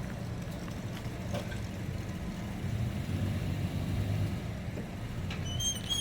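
Steady low rumble of a vehicle driving slowly: engine and tyre noise, with a few brief high chirps near the end.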